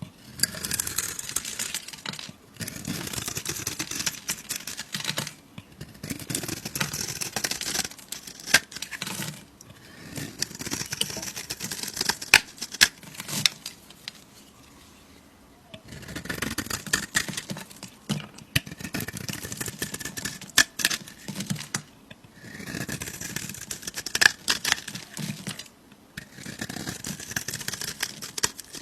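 Knife cutting through soap: runs of crisp scraping and crunching a few seconds each, with sharp cracks, separated by short pauses and a longer pause near the middle.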